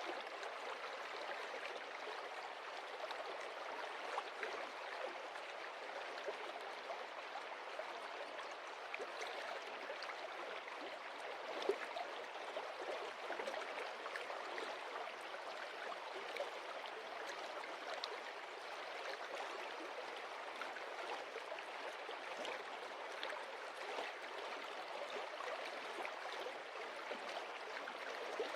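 Stream water running and splashing over stones, a steady rushing with small scattered splashes and one slightly louder splash about twelve seconds in.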